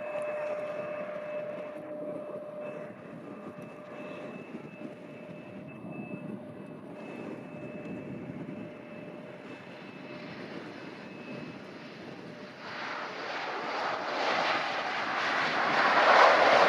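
Airliner engines: a steady two-tone whine fades over the first few seconds, then from about two-thirds of the way in the engine noise grows steadily louder as an aircraft approaches, loudest at the end.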